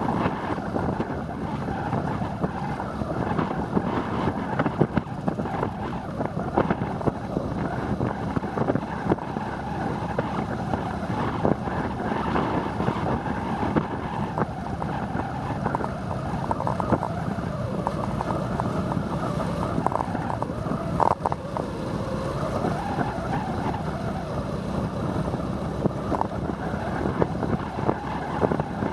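Motorbike ride through city traffic: the bike's engine running, with wind noise on the microphone and passing traffic. Its pitch wavers for a few seconds around the middle.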